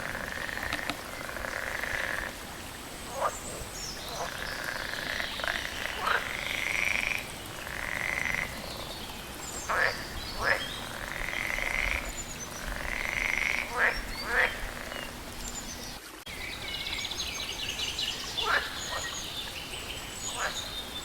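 Frogs croaking in a chorus: repeated drawn-out calls about a second long, mixed with short sharp clicking calls. Higher chirps, likely birds, join in near the end.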